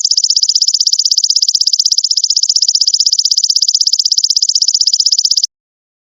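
Golden locust (belalang emas) singing: a loud, high, rapidly pulsing insect trill that runs evenly and then cuts off suddenly about five and a half seconds in.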